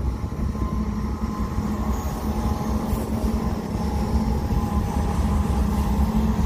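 Union Pacific intermodal freight train rolling past: a steady rumble of wheels on rail, with a steady engine hum as its two mid-train diesel distributed-power locomotives go by.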